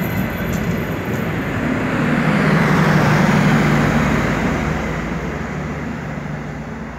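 Diesel passenger train passing close by and drawing away, its wheels rumbling on the rails and its engine droning. The sound swells to its loudest about three seconds in, then fades steadily as the train leaves.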